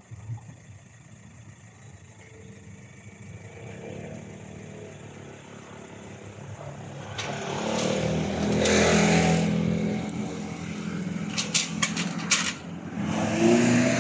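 Train approaching and passing: a steady motor hum swells to its loudest about two-thirds of the way in, followed by a quick series of sharp wheel clacks and another loud rush near the end.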